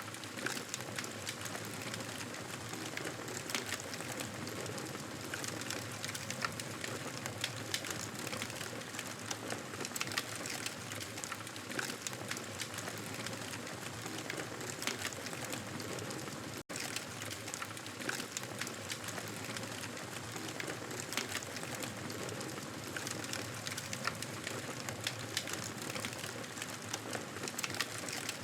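Wood fire burning: a steady hiss dotted with frequent small crackles and pops. The sound cuts out for an instant a little past halfway.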